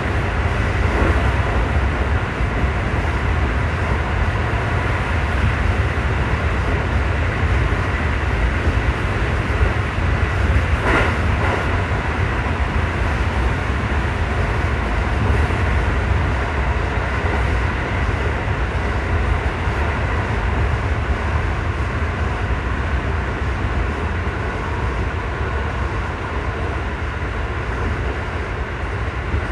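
JR 211 series electric train running through a long tunnel, heard from inside the train: a steady, loud rumble of wheels on rail, closed in by the tunnel walls. There is a brief sharper noise about eleven seconds in.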